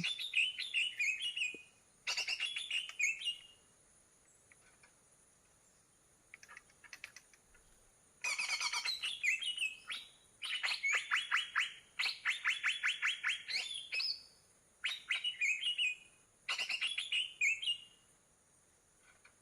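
Green leafbird (cucak ijo) song: about six bouts of fast, chattering chirps, each one to three seconds long, with short pauses between them.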